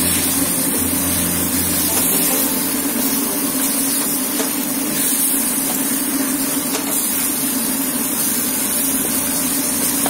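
Marinated chicken with onions and tomato sautéing in a wok, a steady sizzle with occasional scrapes of a wooden spatula stirring it, over a steady low hum.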